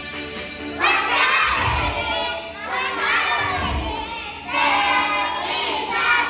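A group of young children shouting together in unison, in several loud phrases over background music that starts about a second in.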